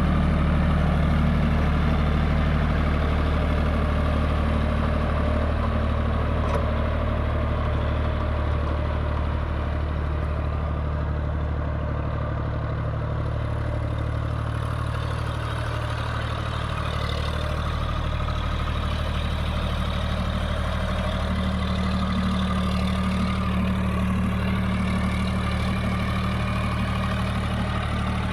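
John Deere 5050D tractor's three-cylinder diesel engine running steadily.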